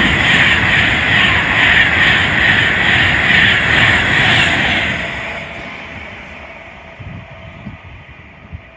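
An Avanti West Coast express passenger train passes close by at speed: loud rushing wheel and rail noise with a quick, even rhythmic clatter as the coaches go by. About five seconds in it fades away as the train draws off down the line.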